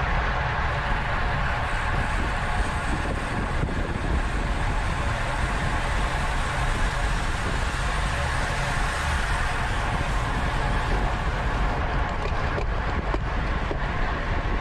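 Steady wind noise on the microphone of a road bicycle ridden at racing speed.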